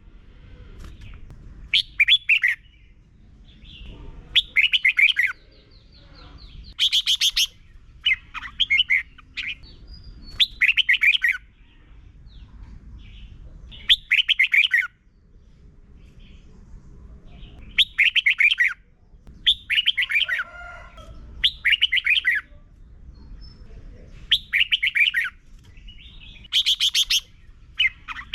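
Red-whiskered bulbul singing short, bright warbled phrases, about one every two seconds, with a faint low rumble underneath.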